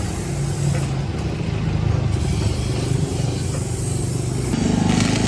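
A motor or engine running steadily with a low hum; near the end its sound shifts and grows a little louder.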